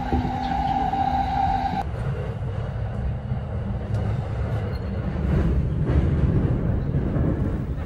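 Tokaido Line commuter train running along the track, a steady low rumble of wheels and carriage. A steady tone over the rumble cuts off suddenly about two seconds in.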